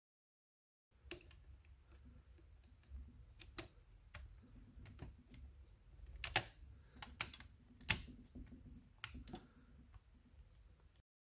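Irregular light clicks and taps, a dozen or so spread unevenly, over a faint low hum, starting about a second in.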